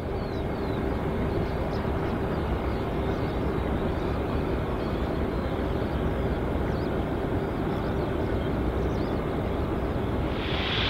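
Jet airliner engines running: a steady rushing noise with a steady hum. Near the end a louder hiss swells in.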